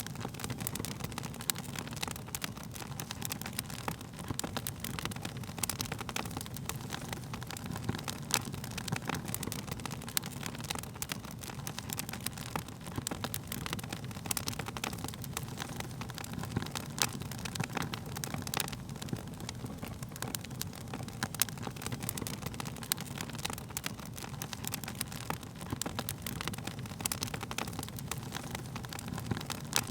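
Wood fire crackling, with many irregular sharp pops and snaps over a steady low rumble of burning.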